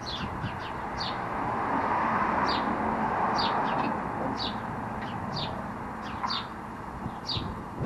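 Birds chirping: short, high, downward-sliding chirps repeating about once a second, over a steady rushing background that swells a couple of seconds in.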